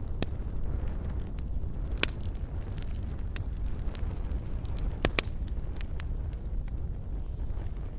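Wood fire in a fireplace crackling: a steady low rumble of flames with scattered sharp pops and snaps, the loudest about two seconds in and a pair of them about five seconds in.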